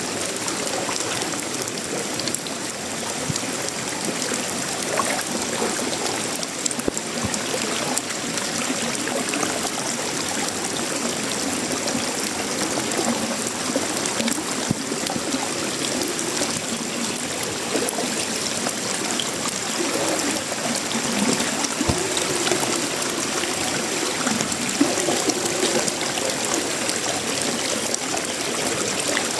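Tropical rain falling steadily on a sheet-metal roof, wood and leaves, dense with the ticks of single drops, with runoff water trickling and gurgling.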